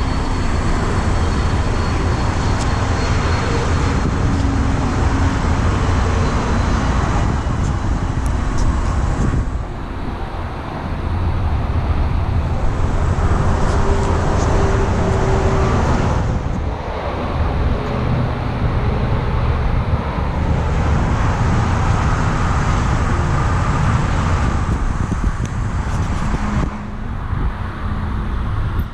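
Road traffic passing steadily, its noise swelling and easing as vehicles go by.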